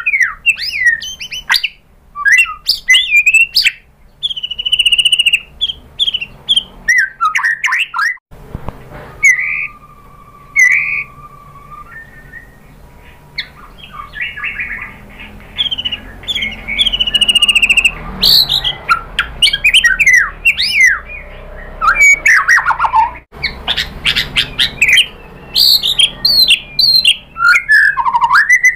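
White-rumped shama singing a loud, varied song of fast whistles, sweeps and chattering phrases, full of phrases mimicked from other birds. About nine seconds in the singing thins out for a few seconds around one long steady whistle, then picks up again.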